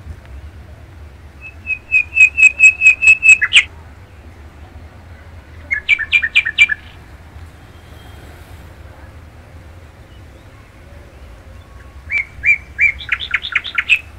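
A songbird singing close by in three short phrases of rapidly repeated clear notes, each phrase one to two seconds long. The third phrase comes near the end.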